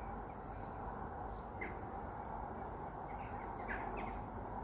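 A few faint, short bird calls, one about a second and a half in and a small cluster around three to four seconds in, over a steady low background noise.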